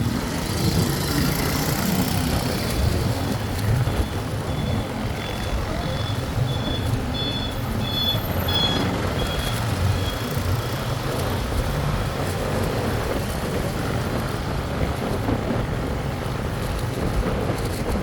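Steady rumble of engine, road and wind noise during a ride along a road. A series of short, evenly spaced high beeps sounds from about three seconds in until about ten seconds in.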